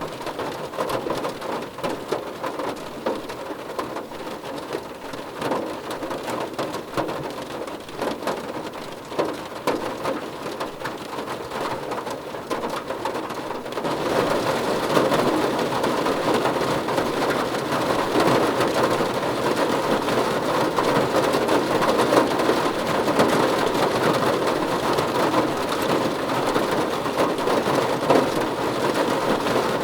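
Rain drumming on a car roof, a dense patter of drops that grows louder and heavier about halfway through.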